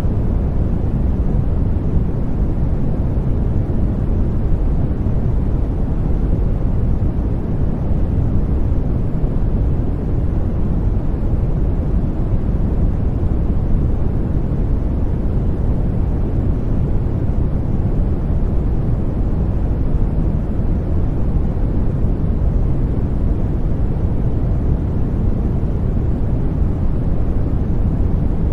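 Continuous white noise for baby sleep: an even, unbroken rushing hiss, weighted deep and rumbly rather than bright, at a constant loudness.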